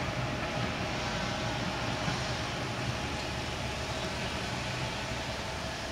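Local diesel train pulling away, its engine hum and wheel noise steady and growing slowly fainter as it draws off.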